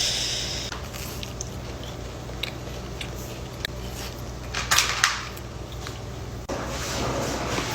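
Close-miked eating sounds: a person biting into and chewing a soft cookie, with small clicks and mouth noises, a brief rustle about five seconds in and a longer rustling hiss near the end, over a steady low hum.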